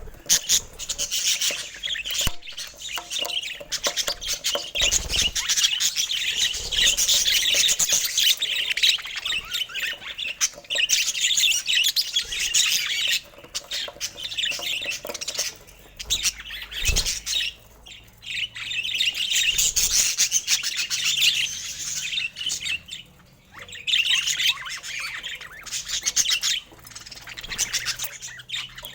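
Budgerigars chattering and warbling in long, fast bouts of high chirps and squawks, with a few short pauses.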